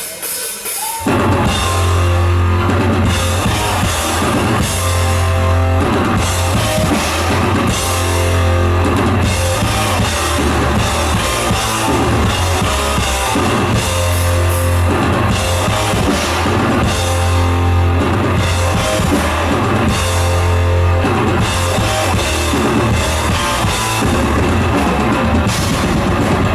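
Thrash metal band playing live: drums, cymbals and electric guitars kick in together about a second in and carry on loud and steady.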